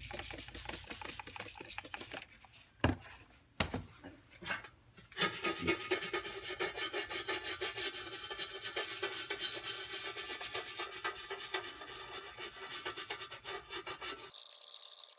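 Rapid, rhythmic rubbing strokes, several a second, of a part being abraded by hand. They begin about five seconds in after a few knocks and scrapes, and cut off abruptly near the end.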